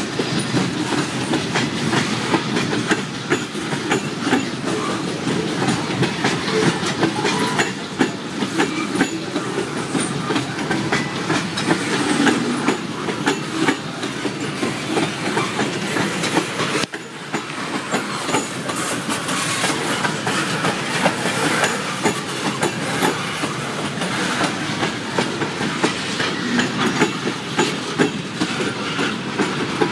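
Freight train tank cars rolling past close by: a steady rumble of steel wheels on rail with a continuous clickety-clack as the wheels cross the rail joints.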